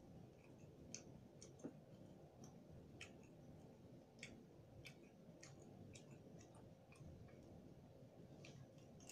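Faint, irregular crisp clicks, about two a second, of chewing crispy fried pork belly with crackling skin.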